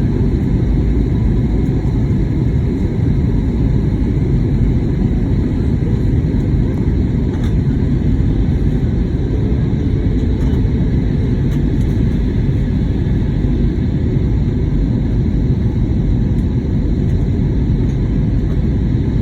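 Steady, loud, low rumble of an Airbus A320neo's engines and airflow heard from inside the passenger cabin, with a few faint steady tones above it.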